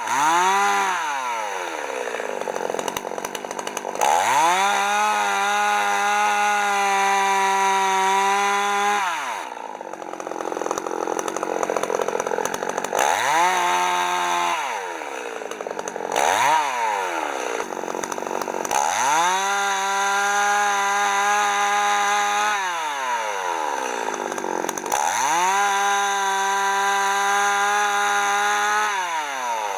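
Chainsaw engine repeatedly revving up to full throttle, holding there for several seconds at a time, then dropping back to idle between stretches, as when bucking logs into firewood rounds.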